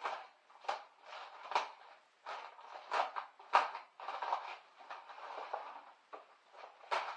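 Irregular knocks, clunks and scraping of objects being handled and set down during hands-on work, about a dozen strokes, the loudest a little past the middle.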